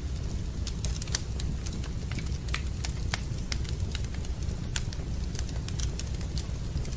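Wood fire burning in a fireplace, crackling with sharp, irregular pops over a steady low rumble.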